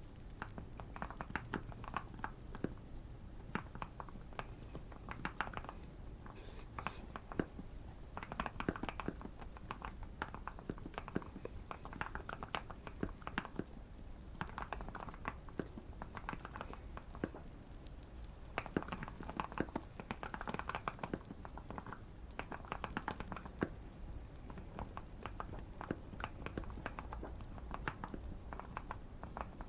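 Continuous typing on a Keychron Q1 custom mechanical keyboard, quick runs of key clicks in bursts with short pauses between, over faint fireplace crackling.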